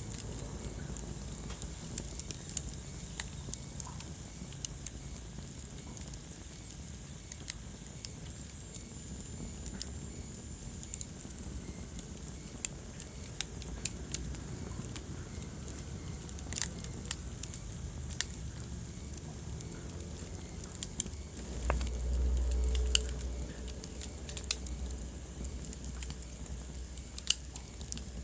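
Wood fire crackling in a fireplace: scattered sharp pops and snaps over a steady low rumble of burning. A faint high whistle runs for several seconds in the first part, and the low rumble swells louder for a couple of seconds near the end.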